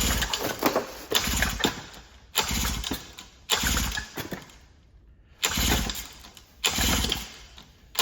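Recoil pull-starter cranking a 1980s Mercury 7.5 hp two-stroke outboard, six pulls about a second apart with a pause near the middle. The engine turns over against good compression but does not keep running.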